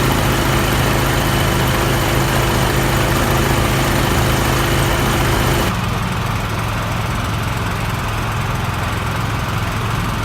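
A motor running steadily with a low, even hum. About six seconds in the sound changes abruptly and becomes slightly quieter and duller, then runs on steadily.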